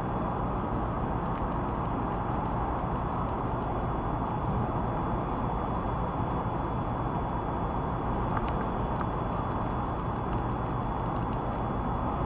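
Steady urban background of traffic and vehicle engines: a continuous low rumble with no distinct events.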